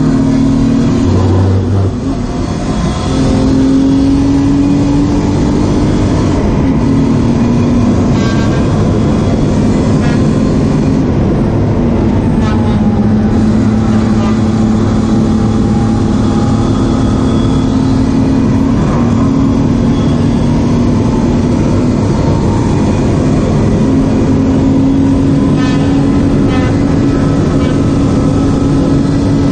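BMW E36 328i's straight-six engine heard from inside the stripped race cabin at track speed, held high under load with shifts in pitch through gears and corners. It lifts briefly about two seconds in, then pulls hard again over steady road and tyre noise.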